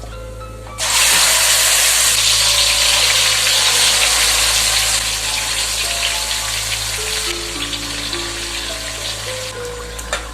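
Food going into a hot pan and sizzling loudly: the hiss starts suddenly about a second in and slowly dies down, over background music.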